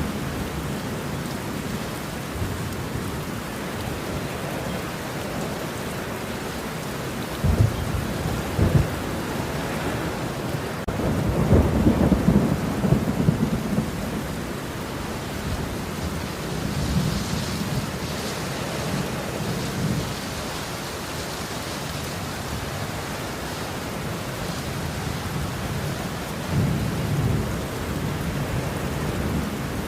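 Steady rain with rolling thunder: two sharp cracks about a quarter of the way in, followed by a longer, louder rumble, and fainter rumbles later on.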